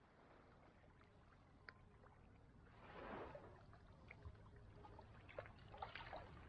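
Near silence: faint background with a few soft clicks and a brief soft rush about three seconds in.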